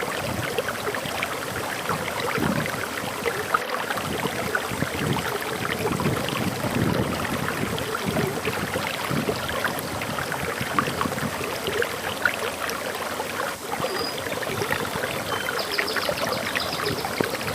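Water pouring steadily over a waterfall, a dense, even splashing. Near the end a bird calls in a run of short, high chirps.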